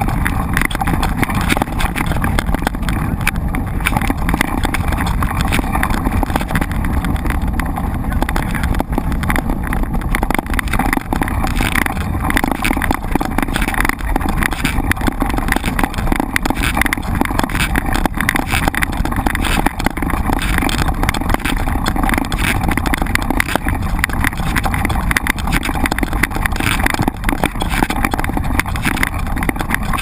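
Mountain bike ridden over a rough trail: a steady low rumble of tyres and wind on the microphone, with constant irregular rattling knocks from the bike.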